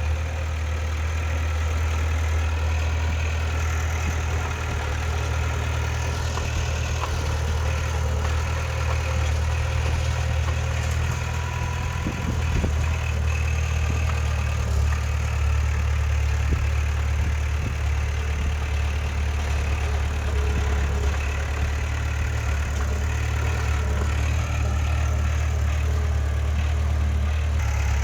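Heavy diesel engine of earthmoving machinery running steadily, a deep even drone that holds the same pitch throughout.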